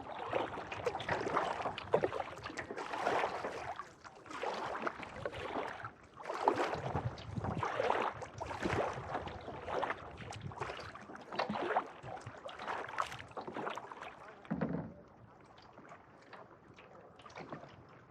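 Kayak paddle strokes: the blades dip and pull through calm lake water in a steady rhythm of about one splash a second, easing off near the end into a quiet wash of water and light wind.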